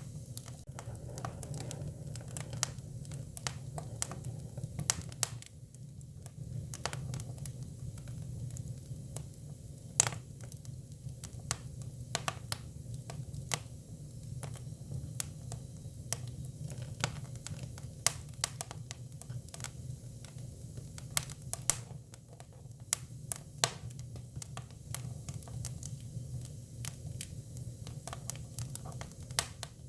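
Hinoki cypress firewood burning, crackling with sharp pops at irregular intervals over a low, steady rumble, a few pops much louder than the rest.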